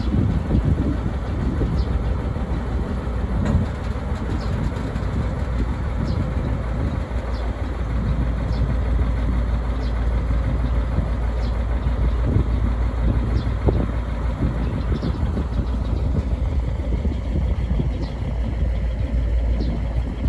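Diesel locomotive engine running steadily, a deep, continuous rumble.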